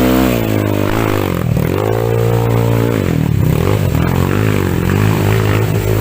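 Trail motorcycle engine revving up and down repeatedly under load as the bike works a rough climb, with gritty scraping and clatter underneath.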